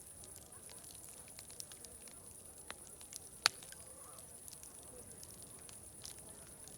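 Wood fire crackling, with scattered sharp pops and one louder snap about halfway through, over a steady high hiss.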